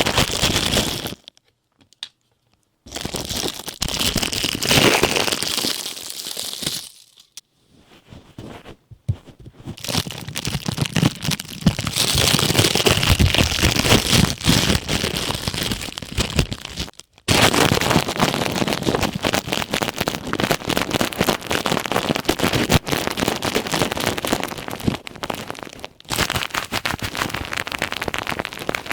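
Ear pick scratching and rubbing on a plastic hair-dye ear cap, making dense crinkling, crackling scrapes. It stops briefly about a second in and again for a couple of seconds around seven to nine seconds in.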